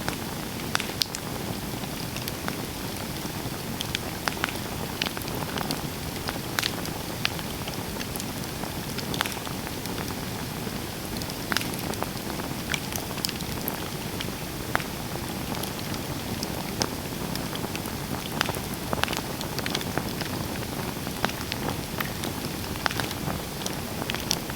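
Campfire burning with a steady hiss and many sharp, irregular crackles and pops from the burning wood.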